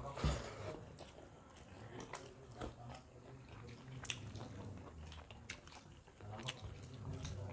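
Close-miked chewing and mouth sounds of people eating rice and fish curry by hand, with scattered small clicks and smacks throughout. The loudest comes just after the start, as a mouthful goes in.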